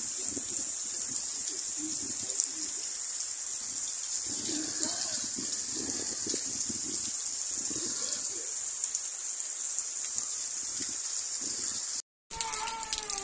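Rain pouring steadily, an even hiss. It cuts off suddenly near the end.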